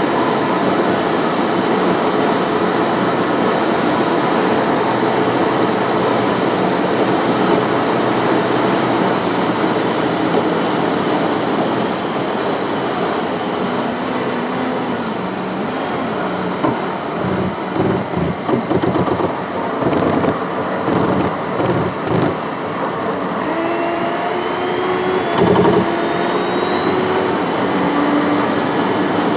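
A car driving on the road, giving steady tyre and engine noise. The noise turns uneven for several seconds past the middle, and a thin whine rises in pitch near the end.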